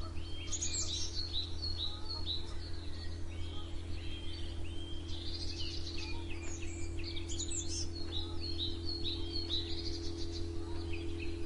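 Songbirds chirping and singing in quick series of short, repeated high notes, several at once, over a steady low hum.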